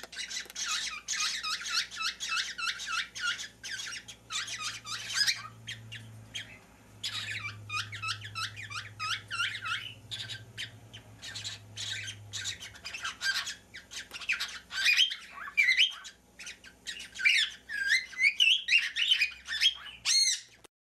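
Baby birds cheeping in rapid, overlapping high chirps, with a couple of short lulls; the sound cuts off abruptly just before the end.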